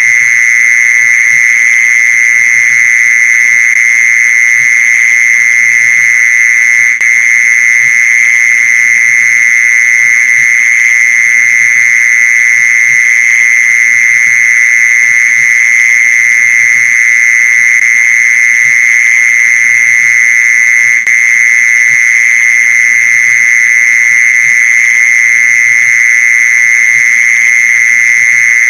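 Mole cricket singing: one continuous, loud, unbroken trill held at a steady pitch, the calling song that draws other mole crickets to it.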